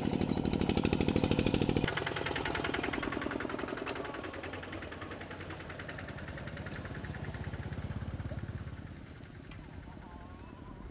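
Small motorbike engine running with a rapid, even chug. The sound changes sharply about two seconds in, then fades away over the next several seconds.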